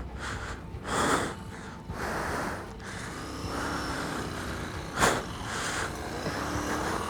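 A man breathing hard into the microphone, a few short heavy exhales, with a motorcycle engine idling faintly underneath.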